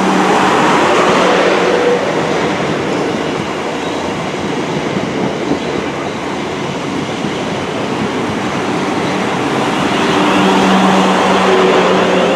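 Class 444 Desiro electric multiple unit pulling into the station alongside the platform: a continuous rumble of wheels on rail with a steady hum, growing louder again about ten seconds in.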